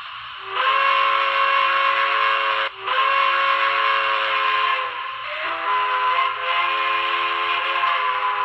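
Steam locomotive whistle sound effect from a Broadway Limited M1a model's Paragon2 sound system: two long blasts, the second changing to a different chord partway through, over a steady hiss of steam.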